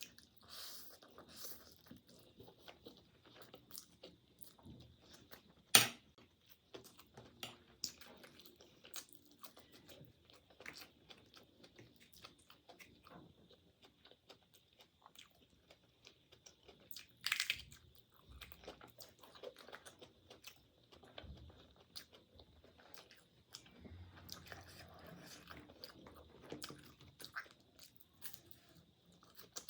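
A person chewing and crunching food close to the microphone, with scattered small clicks throughout and one sharp click about six seconds in.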